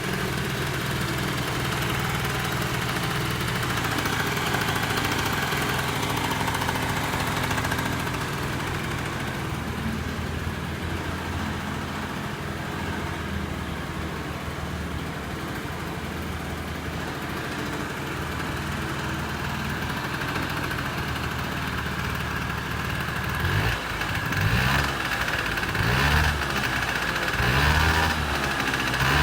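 Honda Lead SS50 (AF10) scooter's 50cc two-stroke engine idling steadily. In the last few seconds it is revved in a string of short throttle blips, about one a second.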